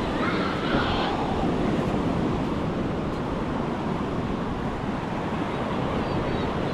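Ocean surf washing onto a beach, with wind buffeting the microphone as a low rumble. A louder rush of surf comes within the first second.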